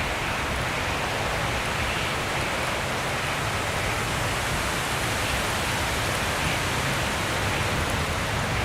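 Steady rushing hiss, even and unbroken, with a low rumble beneath.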